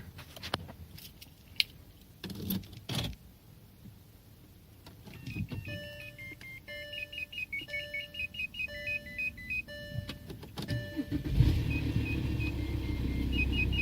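A few clicks, then a repeating electronic chime with the ignition on, then the Volkswagen Touareg's 2.5 TDI five-cylinder diesel cranks and starts about eleven seconds in, settling into a steady idle while the chime carries on.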